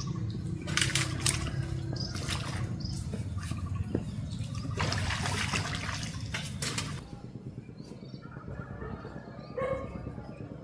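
Water rushing and splashing, with sudden louder splashes, easing off after about seven seconds.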